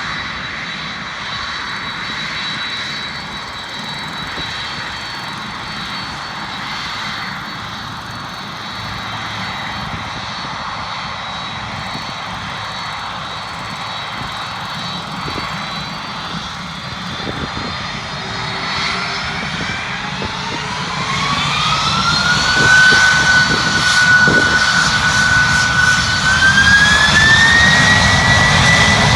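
Airliner jet engines running steadily, then in the last third a whine rises in pitch, holds, and rises again as the engines spool up to takeoff thrust, growing louder.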